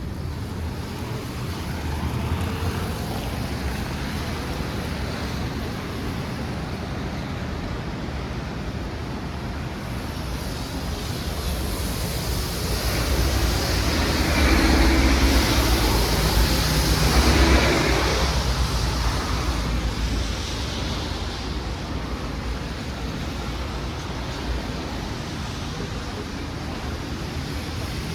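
City street traffic noise as a steady hiss and low hum. About halfway through, a vehicle passes close by, its sound swelling for several seconds and then fading back.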